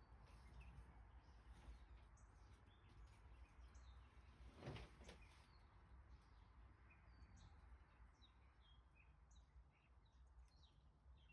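Near silence: low room tone with faint, scattered bird chirps and one soft knock about halfway through.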